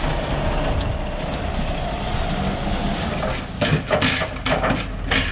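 Tatra Phoenix 6x6 truck running steadily under load, with several short, sharp bursts of noise in the last two seconds.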